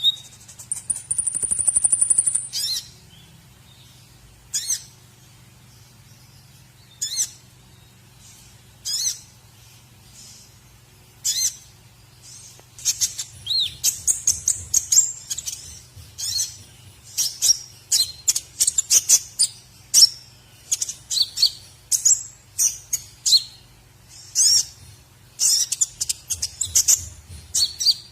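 Recorded songbird calls played as a masteran tutor track for white-rumped shama: a high steady buzz for the first two seconds, then single sharp high chirps about two seconds apart, giving way about twelve seconds in to a fast, busy run of high chirps and whistles.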